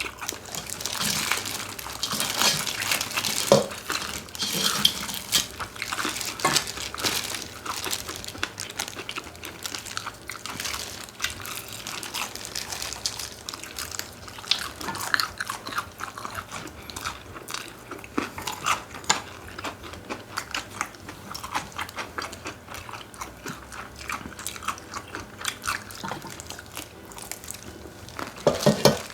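Close-up eating sounds: biting and chewing crispy chicken, with many small irregular crunches and clicks.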